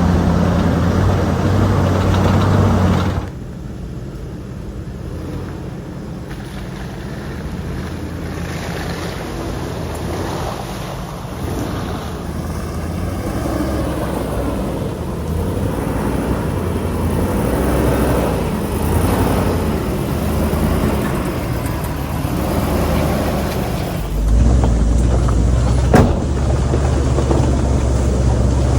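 Vehicle engine running, steady and loud at first, then quieter with its pitch rising and falling as it works, and loud and steady again after a sudden change near the end. A single sharp click a couple of seconds before the end.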